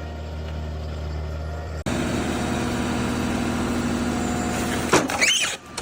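Heavy forestry machine's diesel engine running steadily; about two seconds in the sound switches abruptly to another machine running with a steady hum, and near the end there are sharp bangs and brief high squeals.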